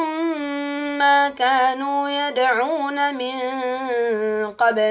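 A man's voice reciting the Quran in melodic tajwid chant, drawing out long vowels with wavering, ornamented pitch turns. There are two short breaks, about a second in and near the end.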